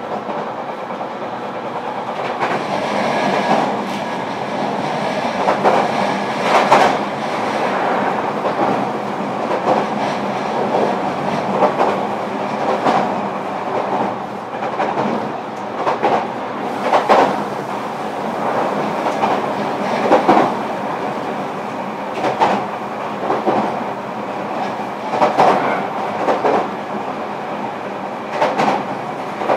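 Running sound inside a JR Kyushu 305 series electric train, recorded in a motor car at line speed: a steady rumble of wheels on rail, with rail joints clicking every couple of seconds, often in pairs as the bogies cross them.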